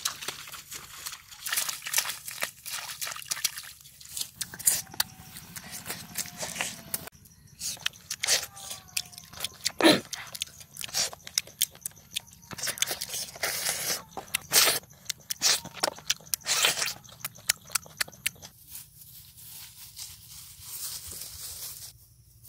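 Crunching and chewing close to the microphone as a piece of cooked eel is bitten and eaten, in a dense run of sharp crunches.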